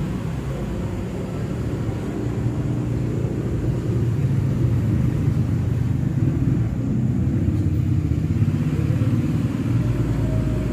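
An engine running steadily, its sound mostly low-pitched, growing a little louder about four seconds in.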